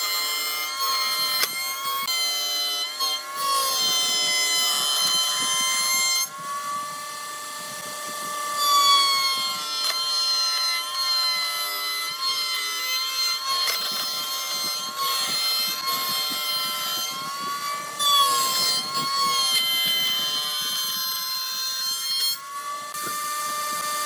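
Electric power tool cutting wood: a high motor whine that sags in pitch each time the tool bites under load, then recovers.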